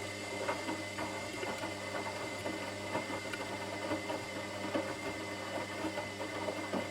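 Washing machine running: a steady motor hum with a thin high whine, and irregular light knocks and clatter from the turning drum and its load.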